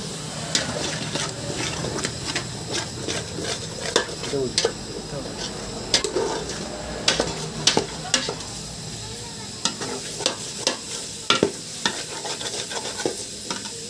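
Curry masala being stirred in a pan, with sharp metal clinks and scrapes of the stirring utensil against the pan at irregular intervals over a steady sizzle of frying.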